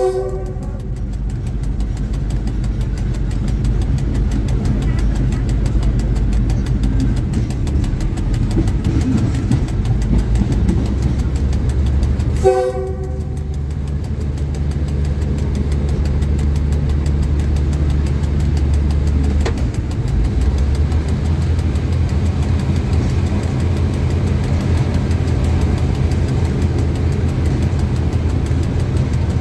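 Train horn blown briefly twice, once at the very start and once about twelve seconds in, over the steady low drone of the locomotive's diesel engine as the train creeps along the track.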